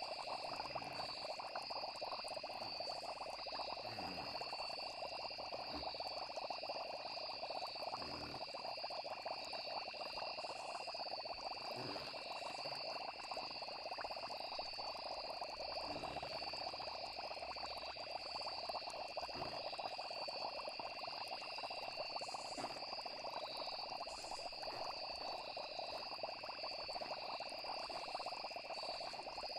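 Night-time nature ambience: a steady chorus of frogs with insects trilling continuously over it, and a few faint low plops every few seconds.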